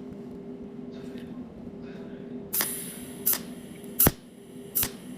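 Cold welding machine firing pulsed arcs: sharp snaps about every three-quarters of a second, starting about halfway in, over a steady hum.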